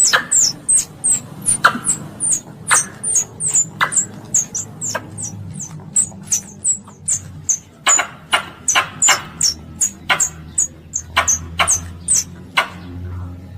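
Squirrel (tupai) calling: a long run of sharp, high chips, about three a second, each with a short note that falls slightly in pitch, the kind of call used to lure other squirrels in.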